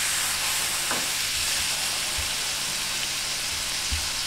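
Sockeye salmon steaks sizzling as they sear in melted butter on an electric fry pan: a steady hiss, with a light click near the end.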